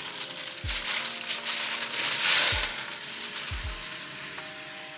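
Battered fried chicken pieces tipped into a hot wok of sauce, the sauce sizzling and crackling hard, loudest about two seconds in and then settling to a steadier sizzle.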